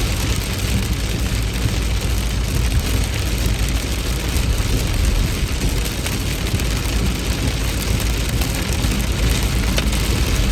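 Heavy rain falling steadily: an even hiss with a few scattered drop ticks over a constant low rumble.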